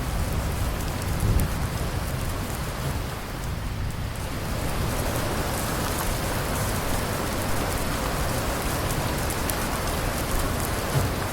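Steady rain falling, a dense even hiss of drops, with a low rumble of thunder dying away in the first second or so.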